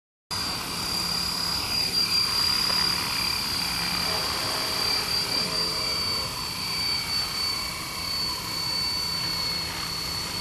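Radio-controlled model helicopter flying, its motor and rotor giving a steady high whine that sinks very slightly in pitch, over a rushing noise of wind.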